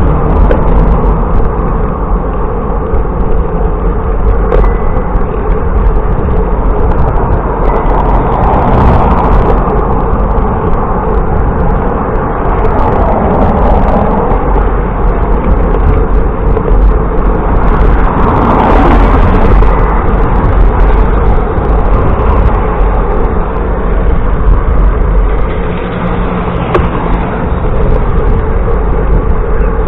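Steady road noise from a bicycle ride along a road, with vehicles passing; the noise swells about nine seconds and again about nineteen seconds in as cars go by.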